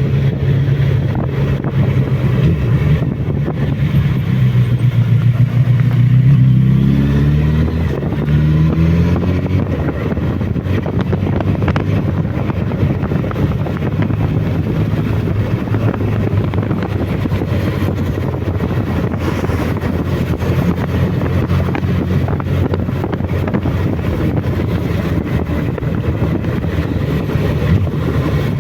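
Suzuki Bandit motorcycle's inline-four engine running under way, its note climbing in pitch about six seconds in, then holding steady.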